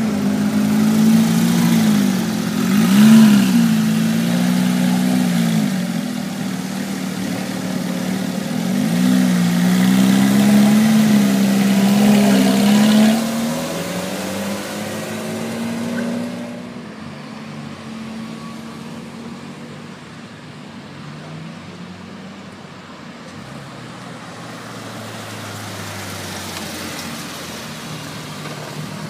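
Several car engines moving at low speed, with a few short revs that rise and fall back in the first half. After that they run quieter and steadier, and a deeper engine tone comes in near the end.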